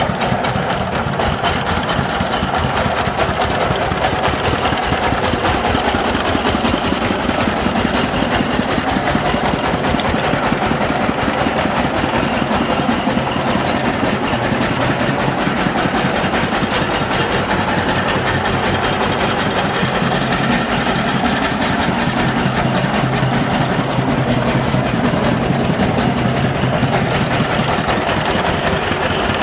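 A công nông three-wheeler's single-cylinder diesel engine running steadily with a fast, even chugging.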